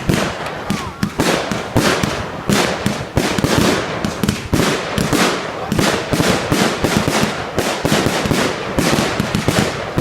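Fireworks going off in a dense, unbroken barrage: many sharp bangs and crackles each second.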